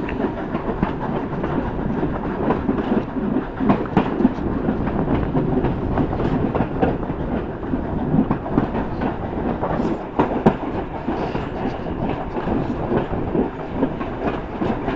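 Railway carriages running along the track, heard from the carriage window: a steady rumble of wheels on rail with irregular clattering knocks over the rail joints.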